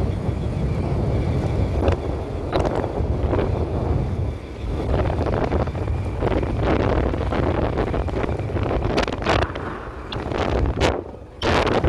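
Wind buffeting the microphone, a loud rumbling rush that rises and falls in gusts and drops away briefly near the end.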